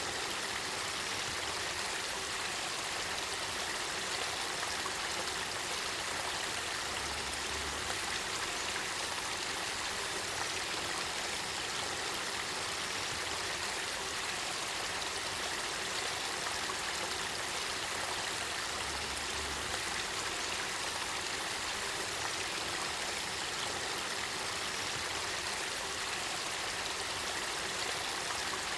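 Spring water of the Kakita River flowing and burbling, a steady even rush.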